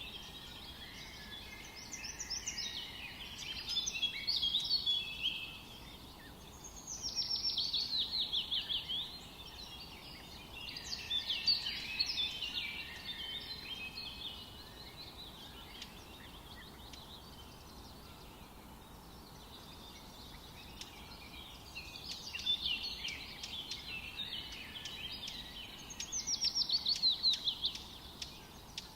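Several birds singing in a forest over a faint steady background hiss. One song, a quick series of falling notes lasting about two seconds, comes around a quarter of the way in and again near the end, with other chirps and twitters in between.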